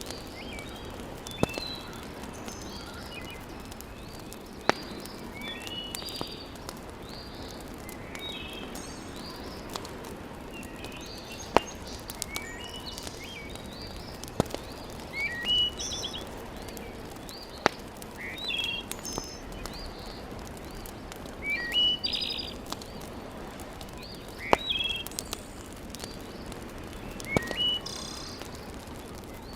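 Wood fire crackling in a fireplace, with a sharp single pop every few seconds, while small birds chirp repeatedly in the background.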